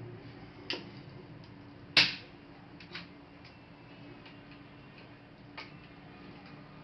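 Scattered small clicks and taps of a laptop being taken apart by hand, the loudest a sharp click about two seconds in, with fainter ticks around it.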